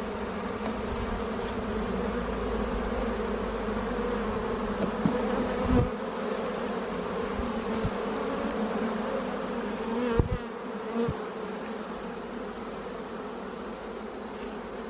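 Honeybee colony buzzing steadily from an opened hive, with a few knocks about six and ten seconds in.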